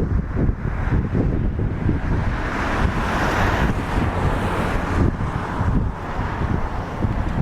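Wind buffeting the microphone: an irregular low rumble with gusty hiss that swells about three seconds in.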